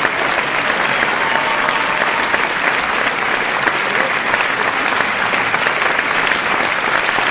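Continuous applause from a crowd, many hands clapping at once in a dense, steady patter.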